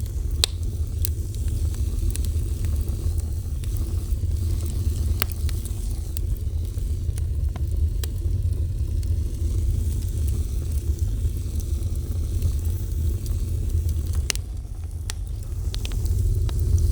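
Wood fire burning: a steady low rumble of the flames with hiss, and scattered sharp crackles and pops from the burning wood.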